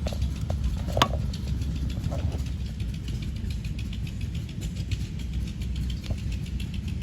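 1932 Fairbanks-Morse Z Style D 'salt block' throttle-governed stationary engine running steadily, with a low even rumble. A single sharp click comes about a second in.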